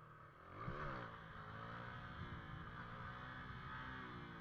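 Motorcycle engine revved once, rising and falling quickly about a second in, then running steadily.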